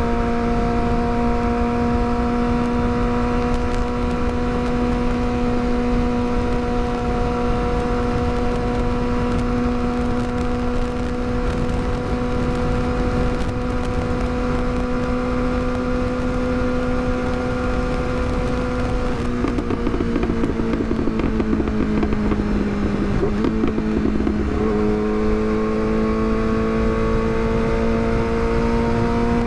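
Yamaha R6's inline-four engine running at a steady cruise under wind rush. About two-thirds of the way in the revs fall off, jump back up suddenly, then climb steadily as the bike accelerates.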